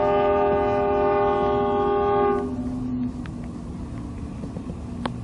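Locomotive air horn sounding a steady chord of several notes, cutting off about two and a half seconds in, followed by the lower sound of the passing train.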